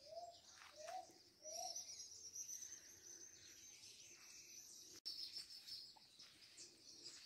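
Faint birdsong: three short cooing notes in the first second and a half, over a thin, steady, high chirring of other birds.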